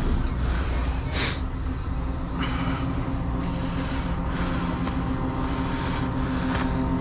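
Heavy-duty tow truck's diesel engine idling steadily, with a short hiss about a second in.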